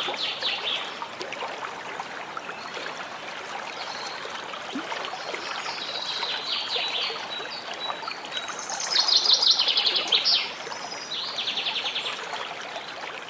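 Birds chirping and trilling over a steady background hiss, with the loudest rapid trills coming about two-thirds of the way through and a shorter trill after them.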